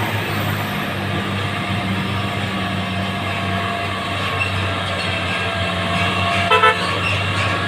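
Heavy diesel truck engine running steadily under load on a climb, with road noise. Near the end a vehicle horn gives two quick toots.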